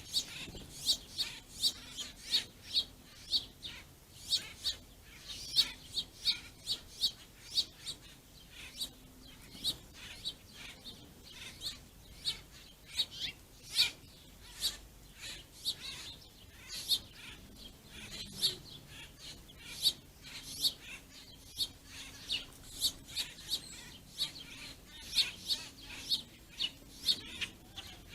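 Small songbirds chirping over and over, short sharp chirps about two or three a second with no real pause.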